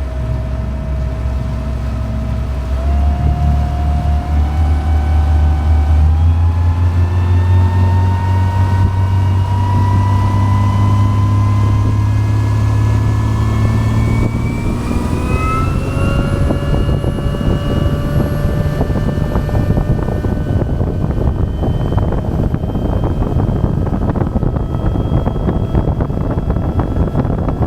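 The Yamaha FC27 boat's turbocharged inboard diesel accelerating hard, its pitch and a high whine rising steadily, showing the rebuilt engine pulling well. About halfway through it levels off at high speed and runs steadily, with rushing wind and water noise growing.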